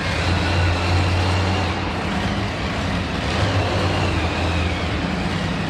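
Monster truck engine running steadily in a low drone that swells a little about a second in and again near the middle.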